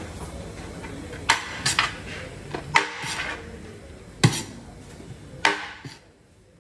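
Metal dishes and utensils clattering, with about five sharp clanks spread over a few seconds against a steady background hiss. The hiss drops away about six seconds in.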